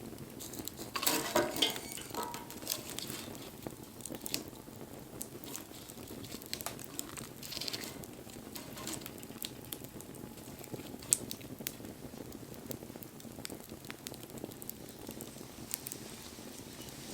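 Wood bonfire burning with a steady soft hiss and irregular crackles and pops, a denser flurry of crackling about a second in and one sharp loud pop near the middle.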